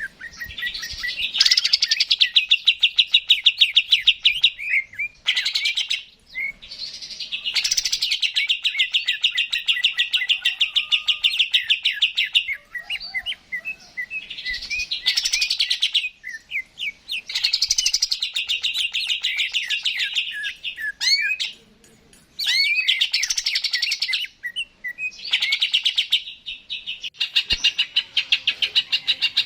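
Green leafbird (cucak ijo) singing: long runs of fast, repeated chattering notes, each run lasting a few seconds, broken by short pauses, with a few quick whistled slurs between runs.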